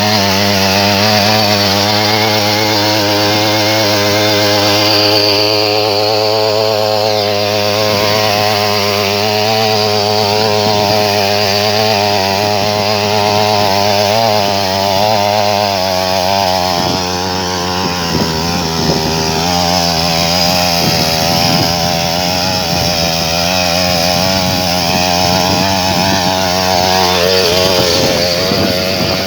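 A mini tiller's 63cc two-stroke petrol engine running, its pitch wavering slightly. For a few seconds past the middle the sound turns rougher and less even, then steadies again.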